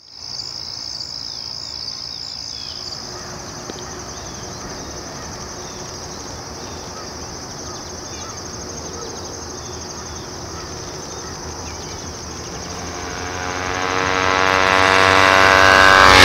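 Insects chirring steadily in a high, even band. In the last few seconds a deeper sound with several tones swells up, growing louder right to the end.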